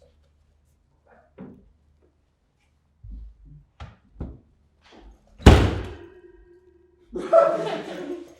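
Light knocks and bumps, then a loud slam about five and a half seconds in that rings on briefly, like a door slammed shut, followed by a rougher clatter near the end.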